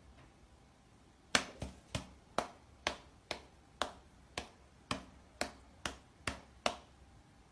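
A run of about thirteen sharp clicks or snaps, roughly two a second, starting about a second and a half in and stopping shortly before the end.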